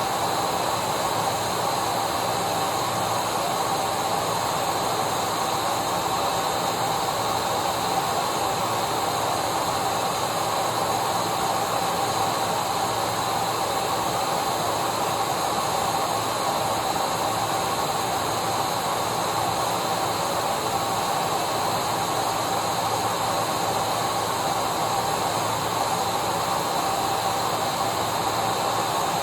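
Vacuum cleaner running steadily: a constant rush of air with a steady motor whine on top, unchanging throughout.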